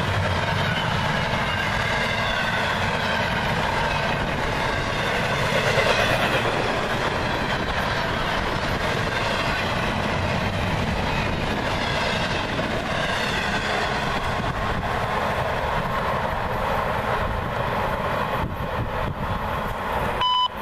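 Freight train's intermodal well cars rolling past close by: a steady rumble of steel wheels on the rails that goes on unbroken, with a slightly louder swell about six seconds in.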